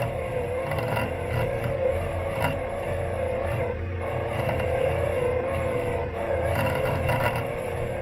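Robot lawn mower running, heard from a camera taped to its body: a steady motor whir that wavers in pitch, with scattered light knocks and scrapes as it drives over the lawn.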